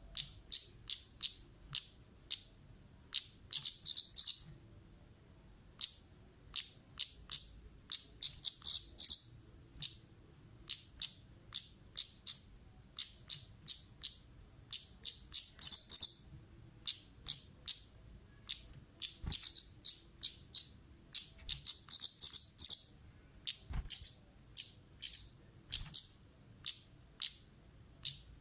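A songbird known to keepers as the kemade calling loudly in quick runs of short, sharp high-pitched chirps, each run several notes long with short pauses between runs. This is a lure call played to set caged birds singing.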